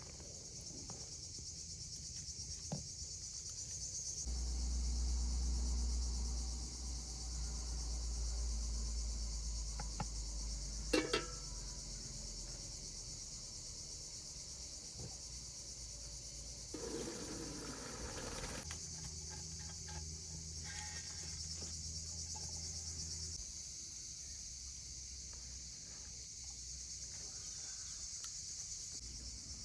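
Insects, crickets or similar, chirring in a steady high-pitched chorus throughout. A low rumble comes in twice, and there is a sharp knock about eleven seconds in.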